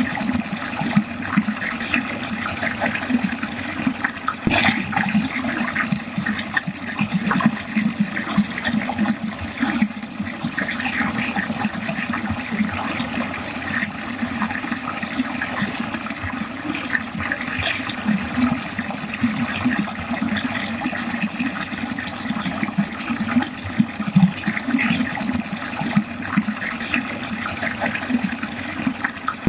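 Water flowing steadily down a drain, a continuous gurgling rush with small irregular splashes.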